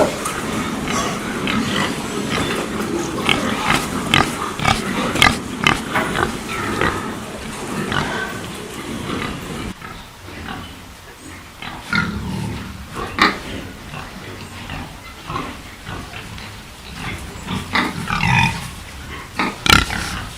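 Pigs grunting, with short irregular calls packed close together for about the first ten seconds, then quieter and more scattered grunts.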